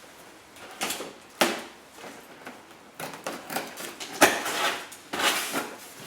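Cardboard packaging being handled and opened: irregular scraping and rustling with a few sharp knocks, the loudest about a second and a half in and again about four seconds in.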